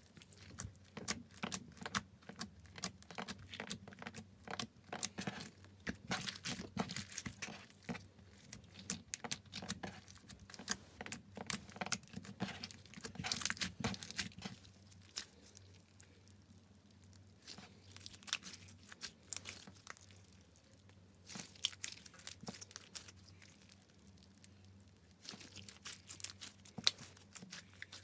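Slime being worked by hand: a steady run of irregular sticky clicks and crackles, thinning out for a while past the middle.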